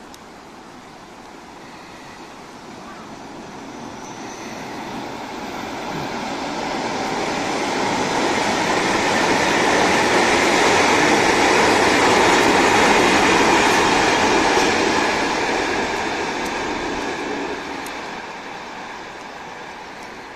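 Electric multiple-unit commuter train passing over a concrete railway bridge. Its rumble swells to a peak about halfway through and fades as it moves away.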